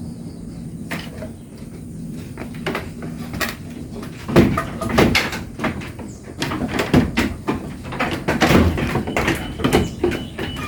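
Irregular knocks and rattles, busier from about four seconds in, over a low steady hum that fades out a few seconds in.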